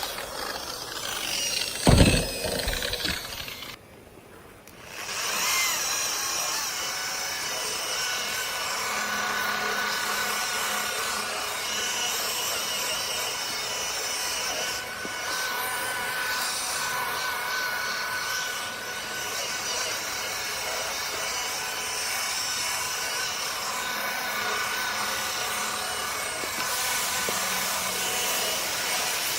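Variable-speed electric buffer running a pad over a plastic headlight lens, working in polishing compound with a steady whirring rub. There is a loud knock about two seconds in. The buffer cuts out about four seconds in and starts again a second later.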